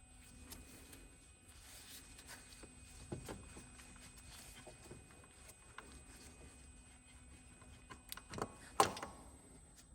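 Faint clicks and handling noises of parts being worked by hand, then two sharp knocks near the end, about half a second apart, like a metal part being set down.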